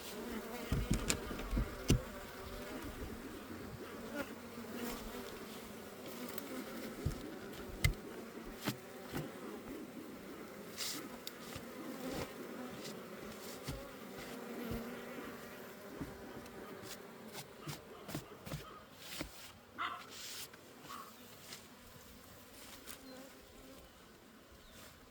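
Honeybees buzzing in a swarm of wavering hums around an open beehive, with scattered knocks and clicks, the heaviest in the first two seconds.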